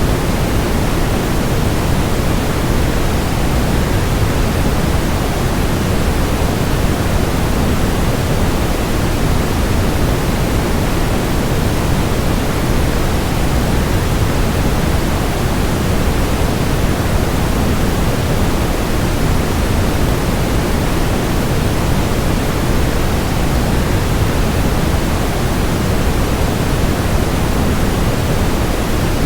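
Waterfall: a steady, unbroken rush of falling water, deepest and strongest in the low end and unchanging throughout.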